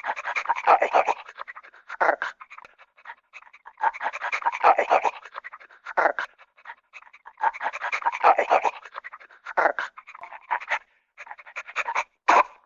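A dog panting in quick, raspy breaths. It comes in bouts about a second long every four seconds or so, with shorter bursts between and dead silence in the gaps.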